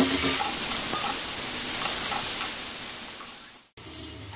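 Chopped vegetables sizzling in hot oil in a kadai as they stir-fry, a steady hiss that fades and cuts off sharply about three and a half seconds in, followed by a quieter stretch.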